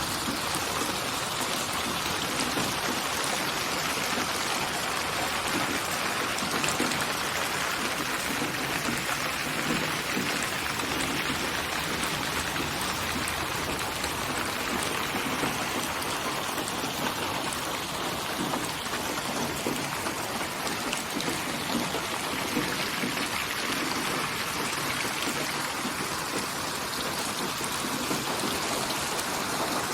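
Steady rain falling, an even continuous hiss of drops.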